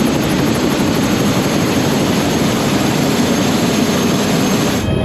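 Loud, steady mechanical drone, like an aircraft or helicopter engine, that changes abruptly near the end to a different, lower drone with several steady high tones.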